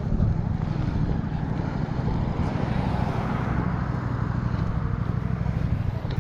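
Engine of a KTM 1290 Super Duke R motorcycle, a V-twin, running while the bike is ridden along the road.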